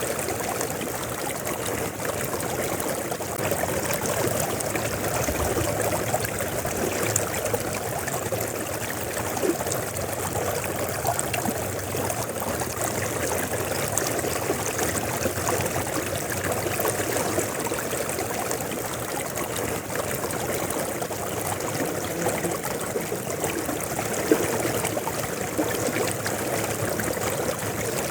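River water flowing steadily over stones, an even rushing with small splashes and trickles throughout.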